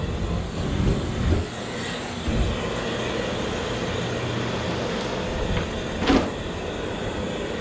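Steady rushing noise of a gas flare burner's flame under the blast of a high-velocity squirrel-cage blower, the flame staying lit in the wind. A few low thumps come in the first couple of seconds, and there is one brief sharp sound a little after six seconds.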